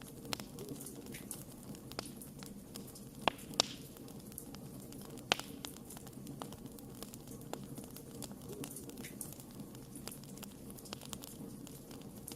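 Wood fire crackling: a steady low rustle of flames under frequent small pops and ticks, with a few louder snaps about three and a half seconds and five seconds in.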